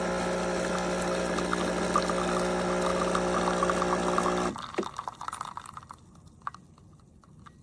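Pump of a WACACO portable electric espresso maker running with a steady hum while espresso pours into the cup. It cuts off suddenly about four and a half seconds in, followed by a few faint ticks.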